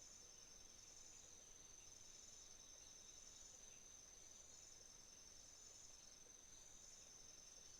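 Faint chorus of autumn crickets: one high, continuous trill, with a second insect's pulsed trill coming in repeated bouts of a second or two.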